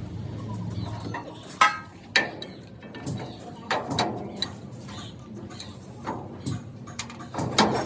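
Hammer blows on metal, about a dozen sharp knocks at an uneven pace, the loudest one a second and a half in. A low steady engine hum dies away in the first second.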